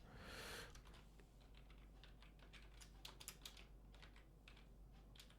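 Faint typing on a computer keyboard: a string of quick, irregular key clicks.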